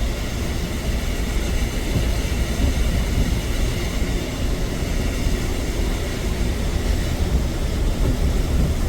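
Steady road and engine rumble of a car driving on a snowy highway, heard inside the cabin.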